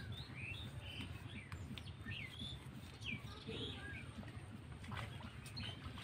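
Small birds chirping, with short curved calls repeated throughout, over a low steady rumble.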